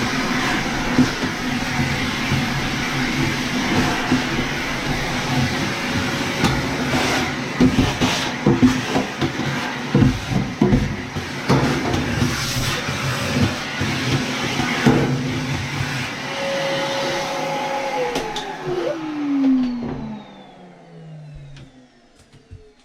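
A vacuum cleaner runs steadily, with irregular knocks and rattles from the hose and the lint being sucked up. Near the end it is switched off and its motor winds down, the pitch falling over a few seconds.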